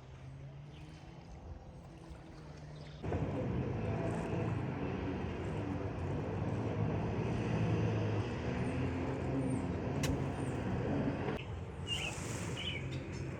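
A motor running with a steady low hum that turns much louder and rougher about three seconds in, easing off again shortly before the end, with a few bird chirps near the end.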